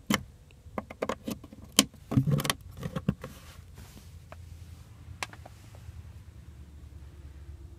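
Quick clicks, knocks and a short rattle of rear-cabin fittings being handled, such as the 12-volt outlet covers, during the first three seconds, then a low steady hum inside the car.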